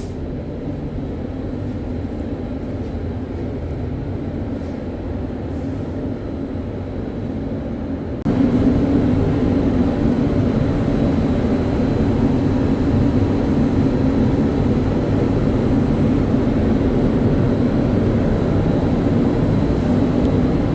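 Steady workshop machine drone with a low hum, which gets suddenly louder about eight seconds in and then holds steady.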